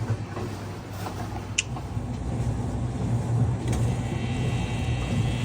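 Maytag MDB4949SKZ2 dishwasher starting a quick-wash cycle: a steady low pump hum that grows louder about two seconds in, with one short sharp click at about a second and a half.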